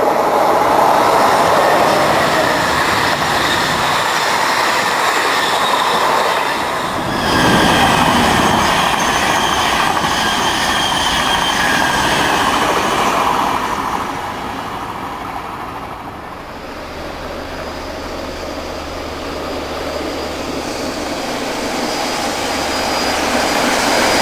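Thalys high-speed electric train passing at speed: a loud, even noise with a surge about seven seconds in, fading after about fourteen seconds. The sound then builds again toward the end as a steam locomotive hauling coaches approaches, with a steady low hum underneath.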